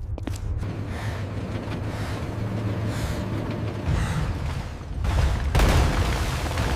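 Deep, continuous rumbling noise with a rushing hiss over it, swelling suddenly about five and a half seconds in.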